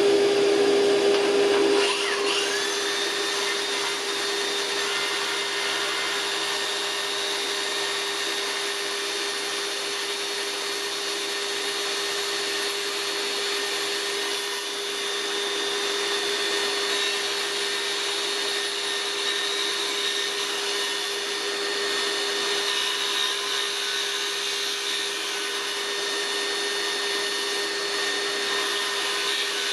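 Electric circular saw motor running steadily, a constant whine that holds one pitch throughout.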